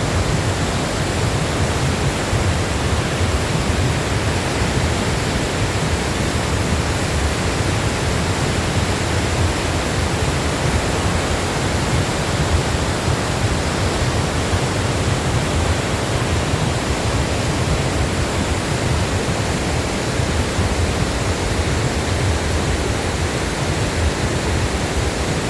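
Large waterfall roaring: a steady, loud rush of falling water with a deep low rumble under it.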